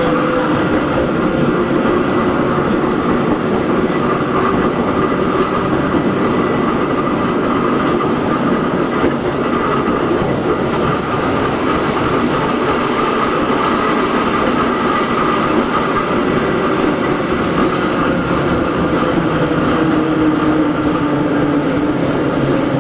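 Hakone Tozan Railway Moha 1 type electric car No. 106 heard from on board while running. Its nose-suspended SE121-A traction motors and gears give a whine that slowly rises and falls in pitch over steady wheel and rail noise.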